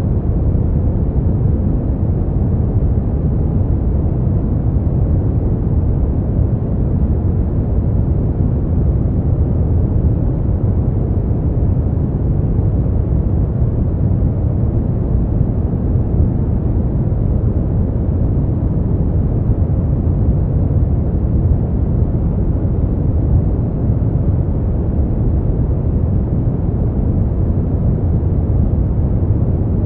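Steady brown noise: an even, deep rumbling hiss with most of its energy in the low end. It does not change at all.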